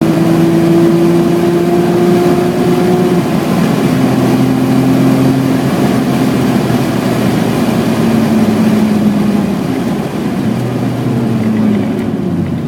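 BMW E28's 3.6-litre straight-six engine pulling under load, its note climbing a little and then dropping to a lower pitch several times, like gear changes.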